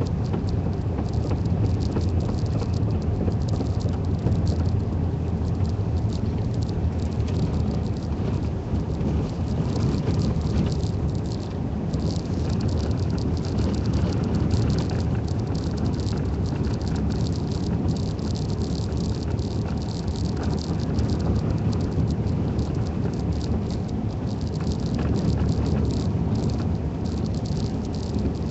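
Vehicle driving on a snow-covered road, heard from inside the cabin: a steady low rumble of engine and road with a dense crackle of the snow tires rolling over snow and slush.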